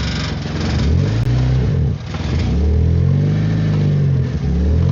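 A small Fiat car's petrol engine is revved up and dropped back about three times, with a sharp dip about two seconds in. This is the drive-off test used to bring out the knock from a worn engine mount.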